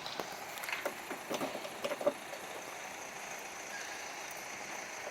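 A few light knocks and clicks in the first two seconds, over a faint steady hum.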